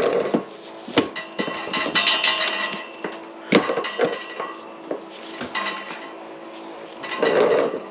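Metal tools and pipe fittings clanking and knocking, with a few sharp strikes.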